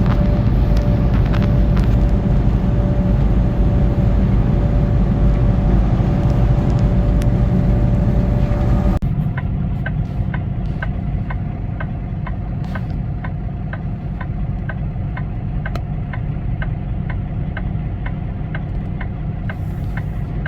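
Semi truck running down the road, heard inside the cab as steady engine and road noise. About nine seconds in the sound cuts to a quieter engine run, with a regular clicking about twice a second.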